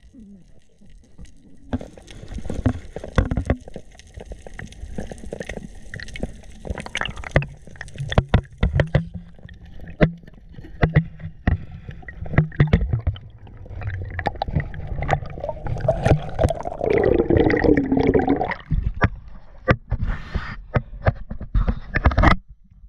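Water gurgling and sloshing with many sharp clicks and knocks, and a louder bubbling churn about two-thirds of the way through.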